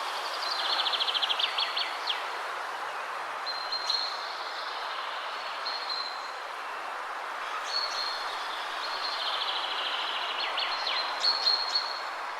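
Steady wind rushing through the trees, with songbirds singing over it: a fast rattling trill near the start and again about three-quarters of the way through, and short high whistled notes in between.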